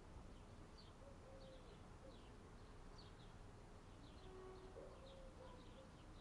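Near silence with faint, short high bird chirps repeating about twice a second.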